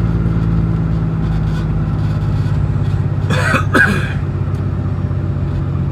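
Road vehicle's engine running steadily as it drives, a low even drone, with a person clearing their throat twice in quick succession a little after the middle.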